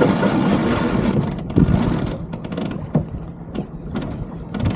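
Sailboat deck winch ratcheting as a sheet is trimmed, then a few scattered knocks of deck gear.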